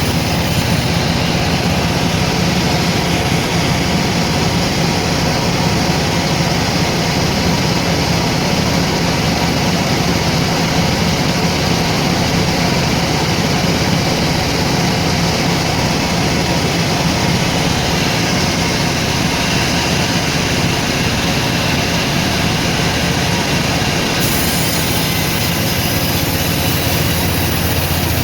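Sawmill machinery running steadily with a continuous low hum and a broad mechanical hiss.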